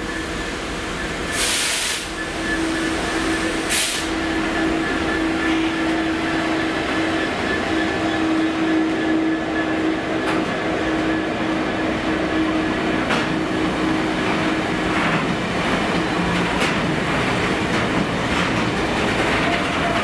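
Class 66 diesel-electric freight locomotive, with its EMD two-stroke V12 engine, running slowly past, with a steady engine note and two short hisses about a second and a half and four seconds in. It is followed by its train of flat wagons rolling by, with wheels clicking over rail joints.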